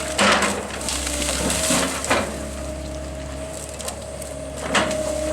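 Wood cracking and splintering as small trees are knocked down and crushed by a heavy machine, over the machine's steady engine hum and whine. Sharp cracks come about a quarter second in, around two seconds in and again near the end.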